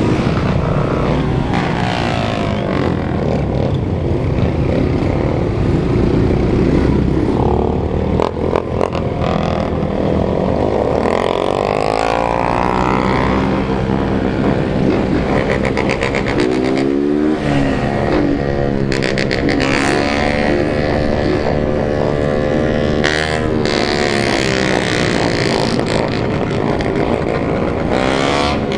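A large group of motorcycles, mostly Honda CG 160 single-cylinder bikes, riding together, many engines running at once. Several engine notes rise and fall in pitch as the riders rev and pass.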